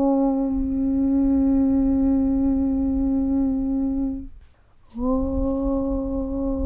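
A voice chanting a long, steady "Aum" (Om) on one held pitch. It breaks off about four seconds in for a short pause and starts the same note again, with a low rumble underneath.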